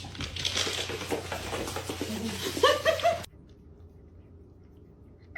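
Rustling and small clicks over a low hum, then a short animal call near the three-second mark, before the sound cuts off abruptly to near silence.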